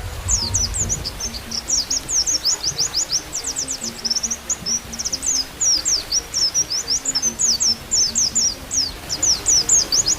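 Oriental white-eye (pleci) singing a fast, continuous twittering song of high, quick downward-sweeping chirps. Faint low sustained music notes sound underneath, and there is a brief low rumble in the first second.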